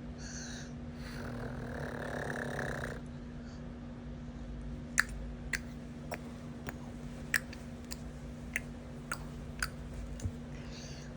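A sleeping baby girl makes a noisy, snore-like sound for about two seconds, followed by a scattering of sharp clicks over the second half. A steady low hum runs underneath.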